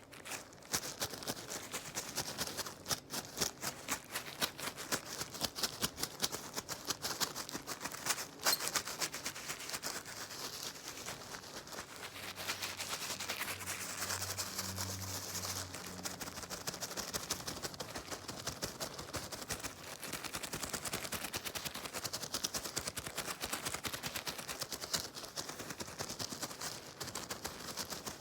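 Dense, rapid crackling and scratching from a cleaning tool handled close to the microphone, with a brief low hum in the middle.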